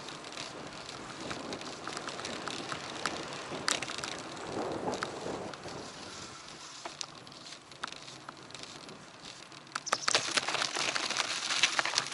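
Bicycle on the move, heard from an action camera: a steady rush of tyre and road noise with scattered rattling clicks from the bike, turning into a louder, denser crackling rattle about ten seconds in.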